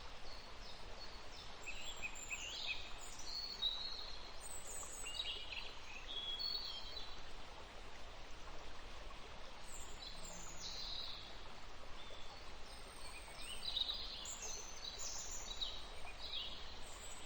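Several small birds chirping, with short high calls and quick rising and falling notes scattered throughout, over a steady faint hiss.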